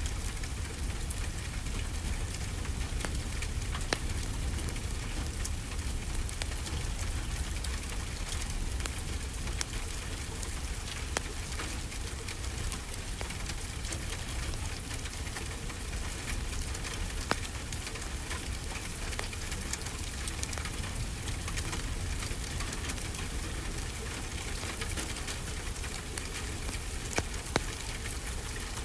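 Steady rainfall hissing, with a wood fire crackling in scattered sharp pops over it.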